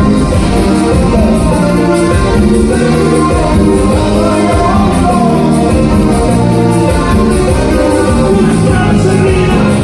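Loud Latin band music with singing over a steady beat.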